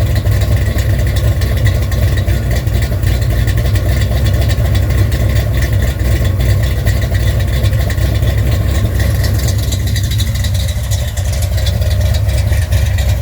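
Ford FE 390 V8 with a Comp Cams 279 Thumper cam idling steadily through Headman headers and its newly fitted exhaust, a deep, even rumble.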